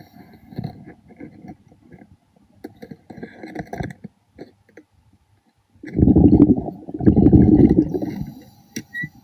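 Underwater, a diver's exhaled air bubbling out in two loud bursts about six and seven seconds in, after quieter scattered clicks and crackles.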